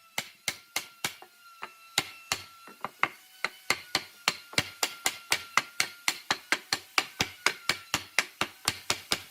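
A hammer striking wood in a long run of sharp, evenly spaced blows, slower at first and then quickening to about four a second.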